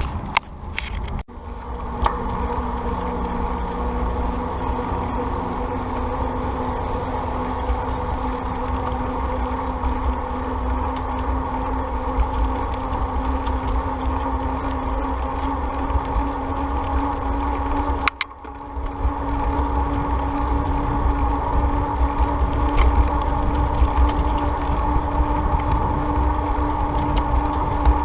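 Wind rushing over the microphone while riding a bicycle, with a steady hum under it that rises slowly in pitch. The sound briefly drops out about a second in and again about two-thirds of the way through.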